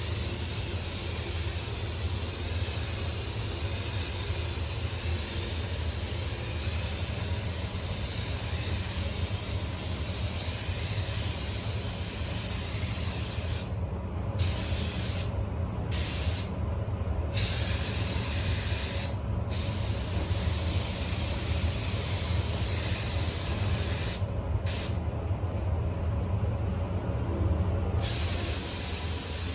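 Spray gun hissing steadily as it lays a coat of clear lacquer, with the hiss stopping for short moments several times in the second half as the trigger is released between passes. A steady low hum runs underneath.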